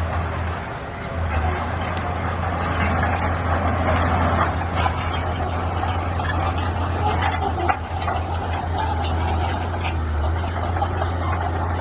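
Bulldozer's diesel engine running steadily, with scattered metallic clanks and knocks over it and one sharper knock about eight seconds in.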